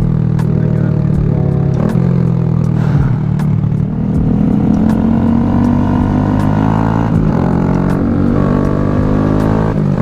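Honda Grom motorcycle engine running under way. Its pitch drops at gear shifts about two and four seconds in, then rises steadily as the bike accelerates.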